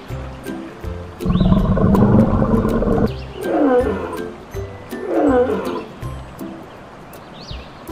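Lion roar sound effect: one long, loud roar starting about a second in, then two shorter calls, over background music with a steady beat.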